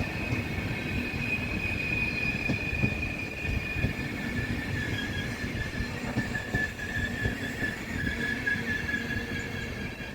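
A train running through the station with a steady high-pitched squeal over a low rumble.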